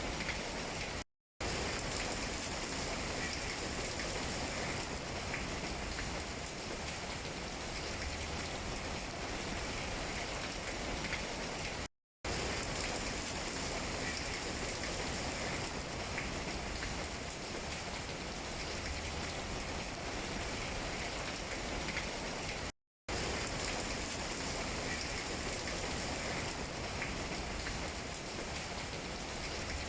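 Steady rain falling on tree leaves, an even pattering hiss broken by three brief moments of silence.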